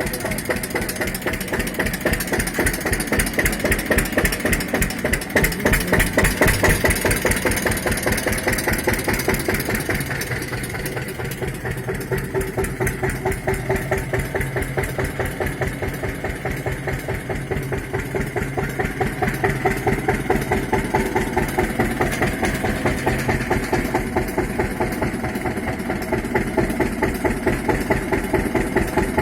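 Tractor engine running steadily with an even, rapid pulsing beat, easing off slightly about ten seconds in.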